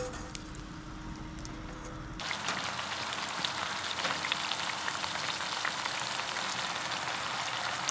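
Food frying in hot oil, sizzling and crackling; about two seconds in the sizzle suddenly becomes denser and louder.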